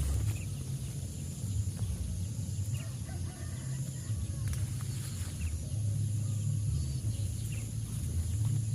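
Outdoor rural ambience: a few faint bird chirps over a steady high background hum and an uneven low rumble.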